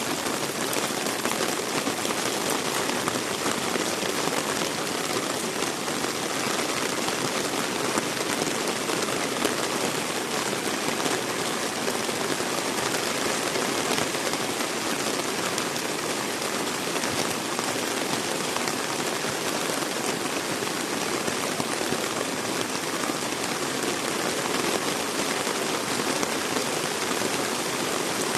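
Heavy rain falling steadily on surfaces, an even hiss with no let-up.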